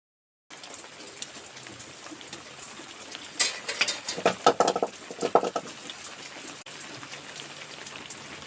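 Heavy rain falling steadily, a fine hiss full of small pattering clicks, with a louder spell of knocks and clatters about three to five and a half seconds in.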